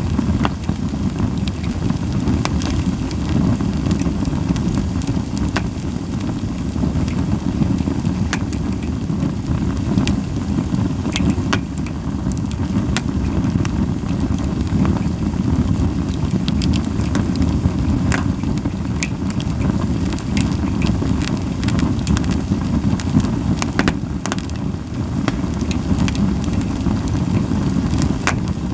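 Japanese white pine firewood burning, with frequent sharp, irregular crackles and pops over a steady low rumble.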